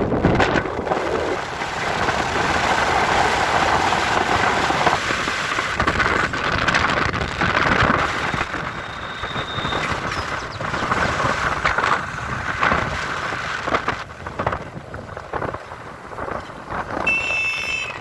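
Wind buffeting the microphone during a ride, with road and traffic noise underneath, in rough, gusty surges. Near the end a brief high tone sounds.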